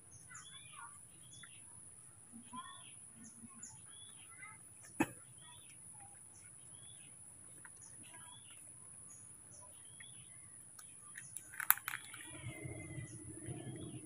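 Small birds chirping, short high calls repeating every half second or so, over a steady high whine. A sharp click about five seconds in and a louder click near twelve seconds.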